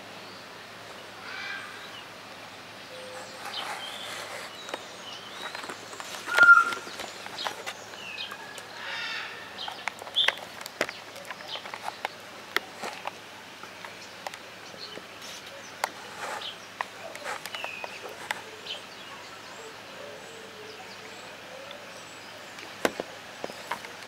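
Scattered short bird calls and sharp clicks over steady background noise, with one loud, brief whistle-like call about six and a half seconds in.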